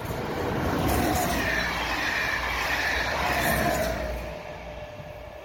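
SNCF BB 22200 electric locomotive hauling an infrastructure train past, wheels running on the rails with a steady hum on top. The sound swells to its loudest in the first half and fades away about four seconds in as the train moves off.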